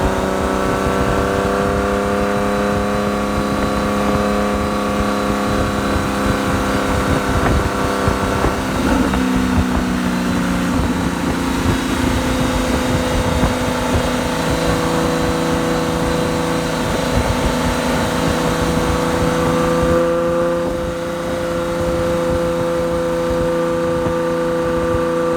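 Porsche 997.1 Carrera S 3.8-litre flat-six running through a modified exhaust (Fabspeed headers, high-flow cats, modded mufflers, centre exit), heard right at the tailpipe while driving at fairly steady revs. The engine note drops to a lower pitch a couple of times and then holds steady, with a rumble of wind and road noise underneath.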